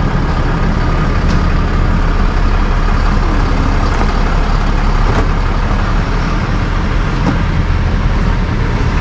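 Steady engine drone and road noise of a motor vehicle being driven, with a few faint ticks.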